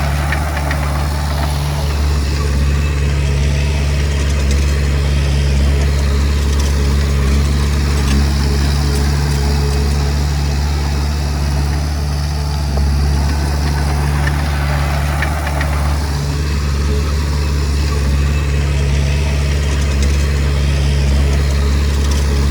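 Diesel engine of a Komatsu D20P bulldozer running steadily with a constant low drone. Twice a wash of higher-pitched mechanical noise swells over it and fades.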